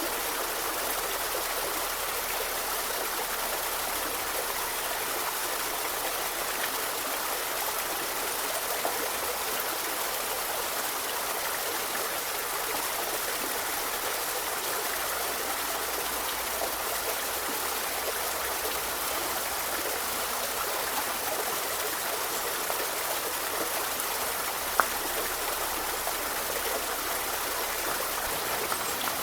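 Forest river flowing over stones: a steady rushing and babbling of water. A single faint click about 25 seconds in.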